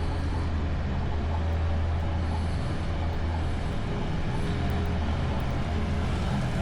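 A motor vehicle engine running nearby, a steady low rumble under a wash of street noise.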